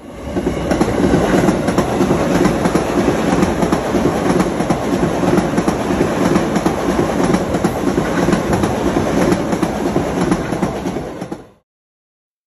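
JR East E235-series Yamanote Line electric train running past, a steady noise of wheels on rails with frequent clicks from the rail joints. The sound cuts off suddenly near the end.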